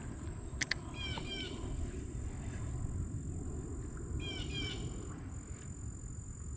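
A bird calls twice, about three seconds apart, each call a quick run of short descending chirps, over a steady low outdoor rumble. Two sharp clicks come just before the first call.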